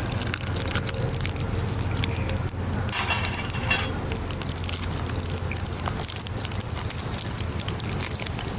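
Ground beef sizzling and frying in oil in a pan over a campfire, a dense steady crackle, with a louder burst of noise about three seconds in.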